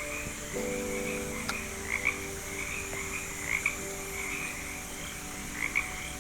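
A chorus of frogs calling, with short calls repeating about twice a second over a steady high hiss.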